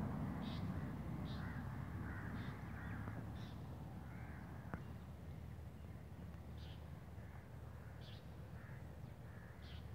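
Birds calling again and again: about seven short, high calls with a gap in the middle, and softer, lower calls between them, over a low rumble.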